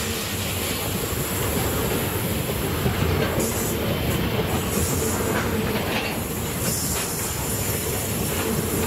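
Freight train wagons rolling past on the rails: a steady rumble of steel wheels on track, with a high wheel squeal that comes and goes over it.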